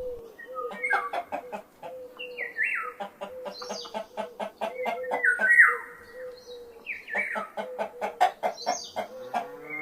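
Domestic hens clucking: runs of quick, short clucks, about three to four a second, broken by a few higher calls that drop in pitch.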